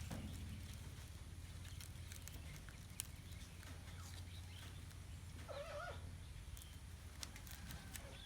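A puppy gives one short, wavering whimper about five and a half seconds in, over a steady low hum, with a few light clicks.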